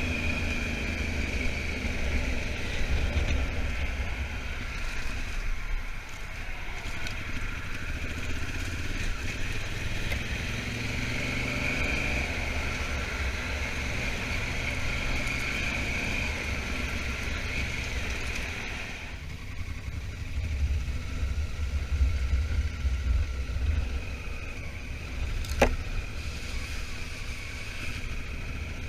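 Honda Africa Twin motorcycle on the move, engine running under heavy wind rumble on the microphone. About two-thirds of the way in the sound eases off, with a single sharp click a few seconds later.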